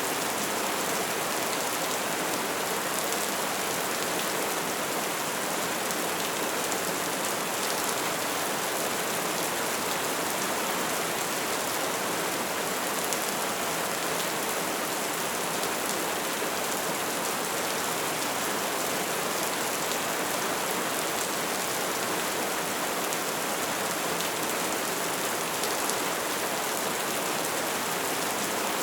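Bonfire burning: a steady, dense crackle and hiss of flames with scattered sharper pops.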